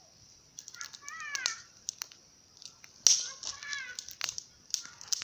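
Campfire of branches crackling with scattered sharp pops. Twice a short pitched call with gliding tones cuts in over it, about a second in and again past the middle.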